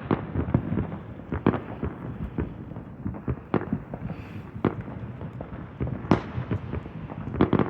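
Consumer fireworks going off: irregular bangs and pops, some louder and sharper than others, over a low rumble.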